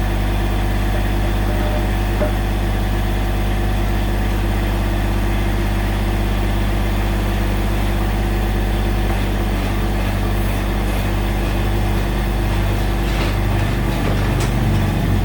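Massey Ferguson GC1710 subcompact tractor's three-cylinder diesel engine running steadily while the backhoe is worked to hook on the bucket; the engine note gets rougher about two-thirds through and slightly louder near the end.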